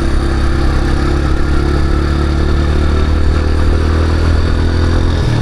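Motorcycle engine running at steady revs while riding, with wind and road noise; the engine note dips briefly near the end.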